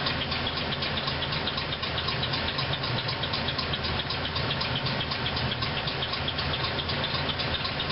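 Pontiac Grand Am GT's 3400 V6 idling steadily minutes after a cold start at 17 °F, a steady low hum with a fast, even ticking over it.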